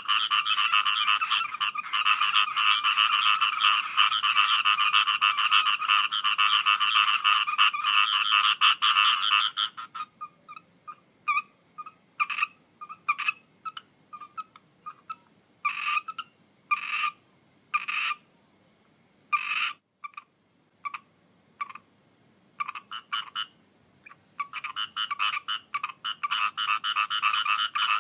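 A chorus of frogs calling, a dense run of rapid overlapping calls that breaks off about a third of the way in, leaving scattered single calls, and builds back into the full chorus near the end. A faint steady high-pitched tone runs underneath.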